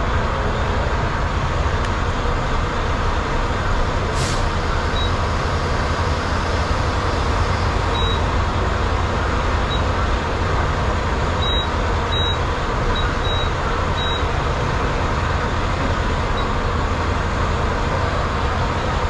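Semi truck's diesel engine idling steadily. A brief high hiss comes about four seconds in, and a few short faint high beeps sound between about eight and fourteen seconds in.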